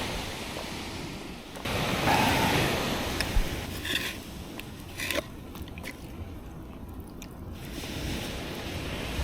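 Wind rushing over the microphone, louder about two seconds in, with a few short clicks and scrapes in the middle.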